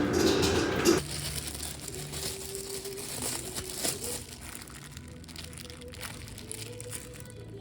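Music cuts off about a second in, followed by quiet crinkling and rustling as something is handled, with a few small clicks.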